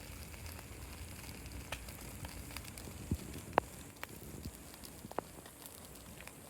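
Wood fire crackling: irregular small pops and snaps over a faint steady hiss.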